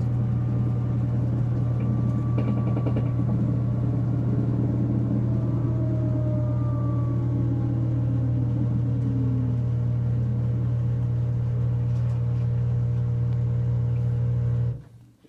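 Whirlpool Duet front-load washer running on its spin cycle: a loud, steady low hum that the owner calls knocking and puts down to worn rear drum bearings. It cuts off suddenly near the end.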